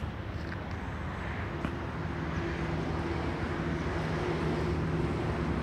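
A motor running steadily, with a steady hum coming in about two seconds in and the sound slowly growing louder.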